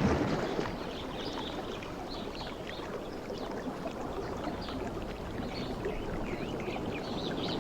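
Sea waves washing on the shore: a steady surf noise that swells at the start and builds again at the end. Faint high chirps run over it.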